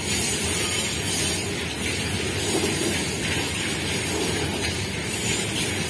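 Freight wagons loaded with steel coils rolling past on the rails: a steady rumble of wheels on track.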